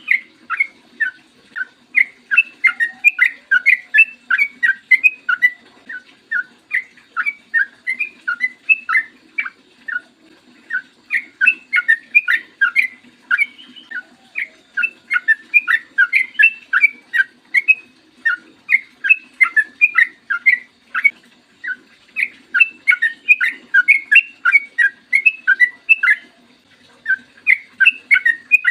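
Yellow-vented bulbul (trucukan) singing a long, fast warbling song: rapid runs of short, clear whistled notes in phrases a few seconds long, broken by brief pauses.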